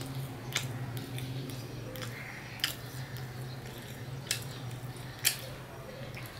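Close-up chewing and mouth clicks of a person eating egg-fried bread, with a handful of sharp short clicks. A steady low hum runs underneath.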